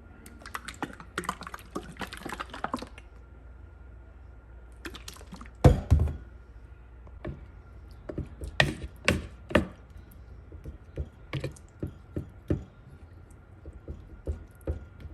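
Kitchen utensils and containers clicking and knocking as food is handled, with two louder thumps about six seconds in, over a faint steady high hum.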